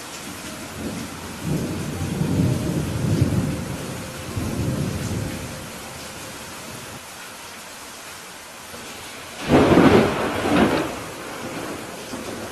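Steady rain with thunder: a low rolling rumble from about a second and a half in to about five seconds, then a louder, sharper thunderclap near ten seconds in.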